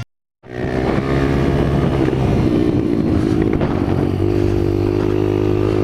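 Dirt bike engine running at a fairly steady pitch, coming in after a half-second gap, with a slight rise in pitch about four seconds in.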